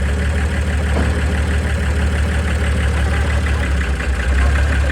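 Truck engine idling steadily with a deep, even hum.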